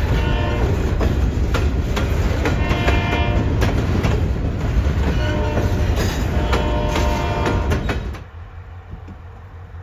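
Diesel freight locomotive sounding its horn in the long, long, short, long pattern of a grade-crossing signal, over the loud rumble of the passing train. The sound drops sharply near the end.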